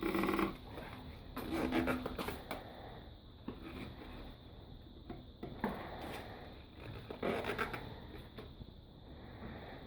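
Rubber bicycle inner tube being stretched and wound tightly around a glued wooden hurley as a second clamp: irregular rubbing and handling noises in several spells, with a few light knocks.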